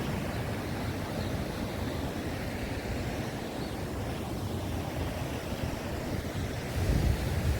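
Wind buffeting the microphone over a steady rushing noise, with a stronger gust near the end.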